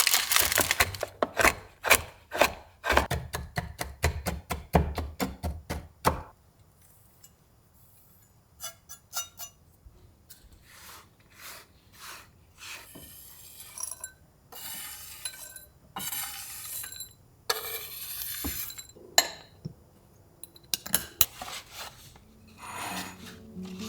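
Household items being handled and surfaces rubbed: a quick run of rustling and clicking for about the first six seconds, then quieter, scattered rubbing strokes and light clinks of containers and dishes.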